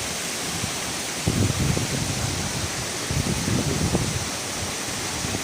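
Waterfall rushing in a steady, loud hiss of falling water, with low rumbling surges about a second in and again around three to four seconds.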